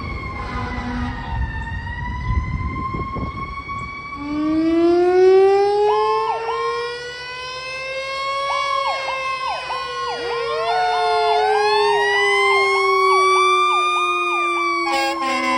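Fire engine responding with its sirens. A wail siren sweeps slowly over engine rumble. About four seconds in, a deeper siren winds up and then slowly winds down, while a fast yelp repeats over it. Near the end comes a short steady horn blast.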